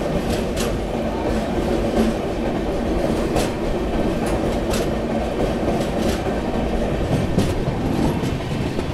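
Indian Railways express passenger train running along the track: a steady rumble of the coaches, with the wheels giving sharp clacks over the rail joints every second or so at uneven intervals.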